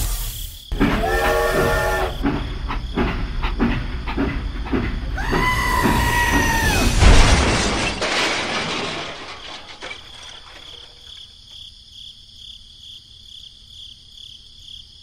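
A train sounds two horn blasts over a rapid clatter of wheels on track, then a loud crash about seven seconds in. After the crash the noise dies away, leaving a faint steady high tone.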